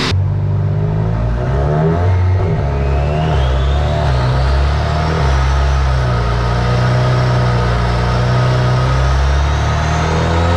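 Golf R's turbocharged 2.0-litre four-cylinder running hard under load on a dyno, with a whine that rises in pitch over the first few seconds, holds, and climbs again near the end.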